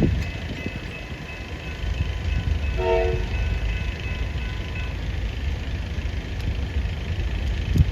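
Train horn sounding one short blast about three seconds in, over a steady low rumble, with the level crossing's warning bells ringing faintly.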